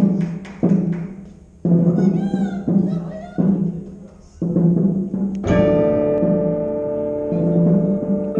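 Percussion ensemble opening its show: a series of loud accented hits, each followed by a sustained low booming tone, then about halfway through a long held chord with many ringing overtones swells in.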